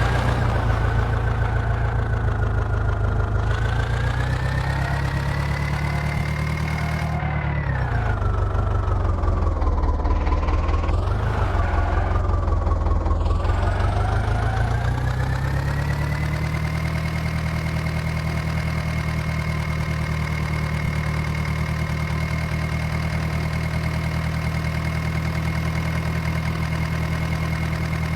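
Diesel engine of a heavy machine running steadily; its revs sag and recover twice in the first half, then rise and hold steady.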